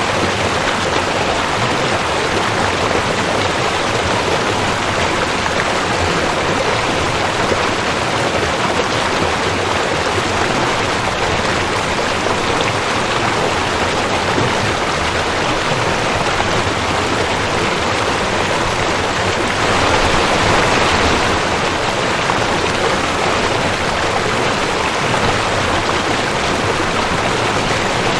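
Rushing creek: water running over rocks in a steady, even rush, swelling slightly for a second or two about twenty seconds in.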